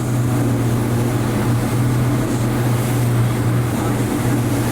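A motorboat's engine running steadily at speed, a constant low drone under the hiss of wind and water.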